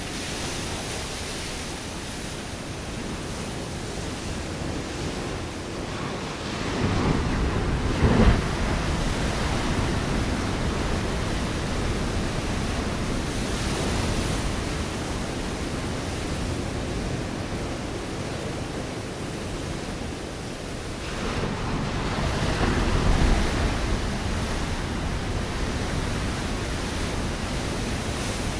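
Ocean waves breaking on a rocky shore: a constant wash of surf, with a louder wave crashing about seven seconds in and another around twenty-two seconds in.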